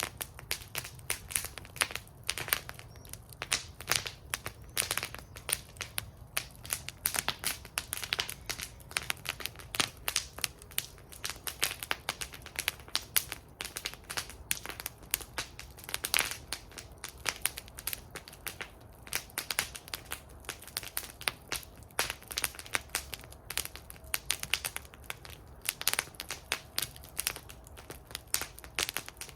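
Wood fire burning in a metal fire bowl, crackling and popping constantly with many irregular sharp snaps over a low steady rumble of the flames.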